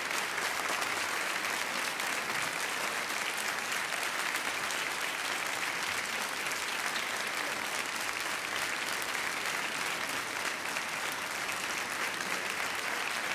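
Studio audience applauding steadily, with dense, even clapping.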